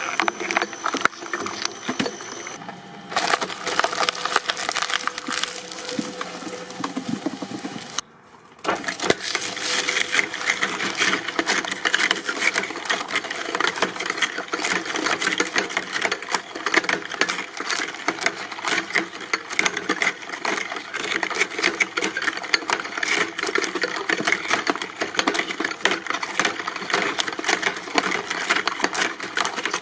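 Industrial shredding machine crunching and splintering material, a dense run of cracks and snaps. There is a brief drop about eight seconds in, after which the crunching carries on.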